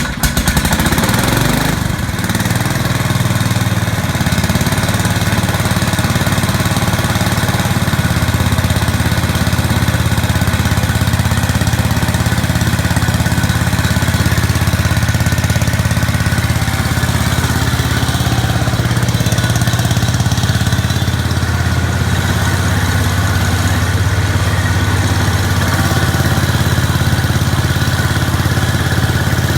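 1969 Hydro 12 garden tractor's engine running steadily just after a cold start, having sat unused for a long time; its note shifts a few times as the speed settles.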